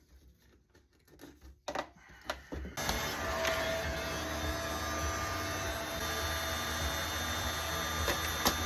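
Oscillating multi-tool cutting through a thick piece: a few short bursts, then a steady buzzing cut from about three seconds in.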